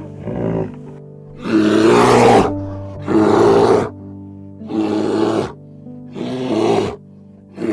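A large animal roaring or growling in a series of about five loud calls, each under a second long and coming roughly every second and a half, over background music.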